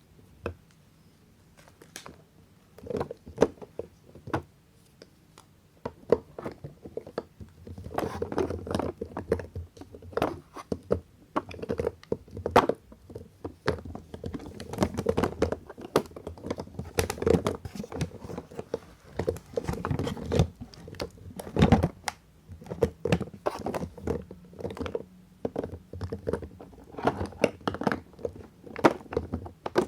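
Soap bars being unwrapped and handled up close: crinkling packaging and crisp crunching clicks, a few scattered at first, then a dense crackling run from about six seconds in.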